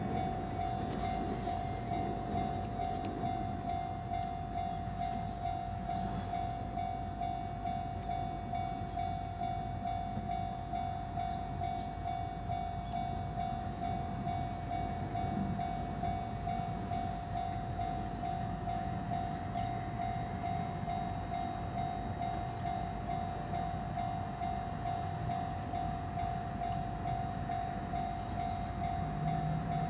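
Railway level-crossing warning bell ringing on and on in fast, even strokes, over a steady low rumble.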